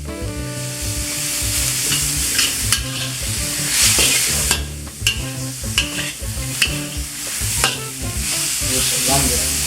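Chicken and vegetables sizzling in a hot wok as they are stir-fried, with the spatula scraping and clacking against the wok several times.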